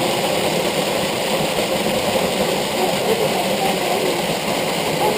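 Steady rushing of a waterfall, an even continuous roar of falling water.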